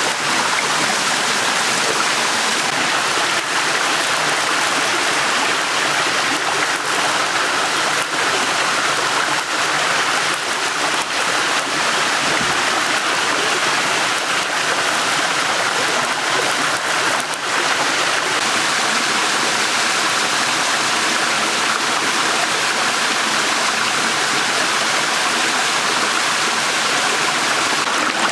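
Small stream's water running steadily, with a few faint clicks.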